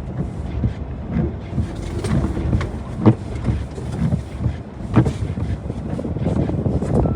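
Mahindra Thar's diesel engine running while the vehicle manoeuvres in snow, with wind buffeting the microphone. Several sharp knocks stand out over the rumble.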